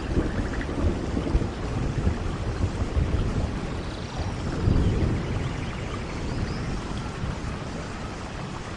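Steady rain with low, rolling thunder rumbling under it, the rumble swelling about halfway through.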